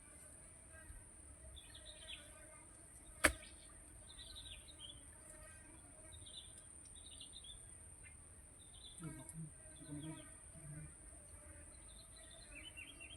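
Small birds chirping in short repeated phrases over a steady high-pitched insect drone. A single sharp click comes a little over three seconds in.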